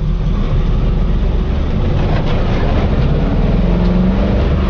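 Off-road rock crawler's engine running loud and steady under load, with a heavy low rumble.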